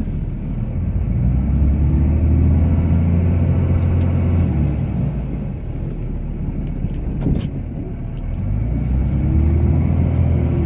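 Cummins inline-six turbo-diesel of a Ram pickup, heard from inside the cab, pulling up under load as the truck pushes snow with its plow. It holds steady, eases off about halfway, then pulls up again near the end. There is a short knock in the lull.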